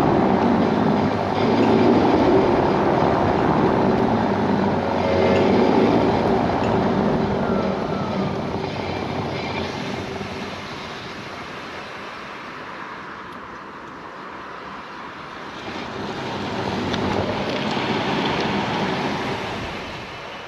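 Road and tyre noise inside a 2015 Tesla Model S P85D while it is driving, fading in the middle and swelling again near the end. A few faint clicks come through, from the clicking at the rear of the car whose cause the owner does not know.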